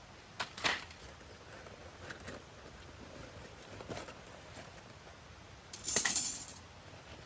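Camping gear being handled: a few scattered light clicks and clinks, then a short, louder scraping rustle about six seconds in.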